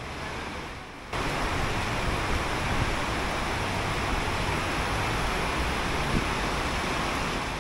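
Torrential rain, heavy enough for an orange rainfall warning, drumming on a metal roof as a dense, steady roar. It jumps suddenly louder about a second in.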